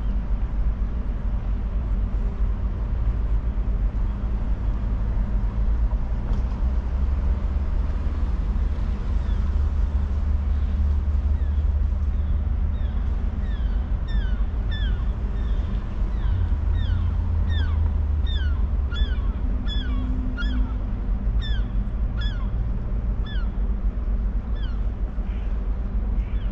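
Steady low outdoor rumble with a faint even hum, and from about halfway through to near the end a bird repeating short, sharp, falling whistled calls, about two a second.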